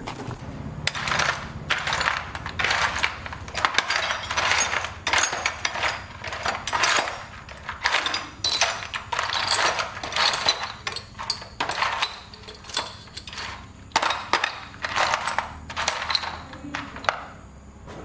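Hand tools working on metal engine parts: a run of irregular scraping and clinking strokes, about one to two a second.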